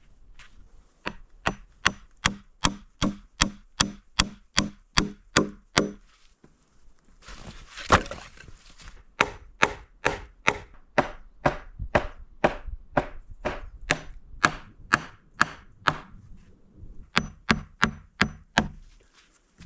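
Rapid, evenly spaced blows of a tool on wood, about two or three a second, in three runs with a short scuffing pause between the first two.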